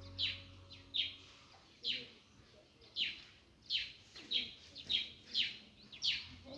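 A bird calling over and over: short, high chirps that each slide down in pitch, a little more than one a second.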